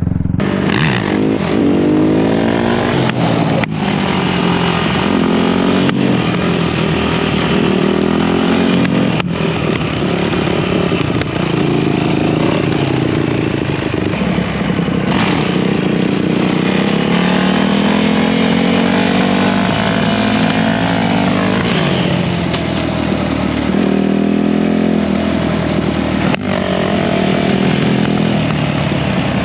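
Yamaha YZ450F dirt bike's single-cylinder four-stroke engine revving hard on a wheelie trainer, the throttle opened and eased off again and again, so the pitch keeps rising and falling in long swells.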